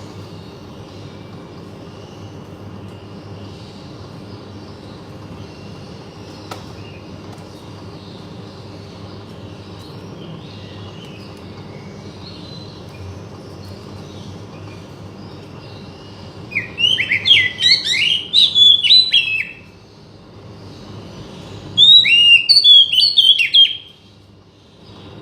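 Oriental magpie-robin (kacer) singing two loud phrases of rapid, varied whistled notes in the second half, over a steady low background hum. It is song of the kind used to draw a silent kacer into singing.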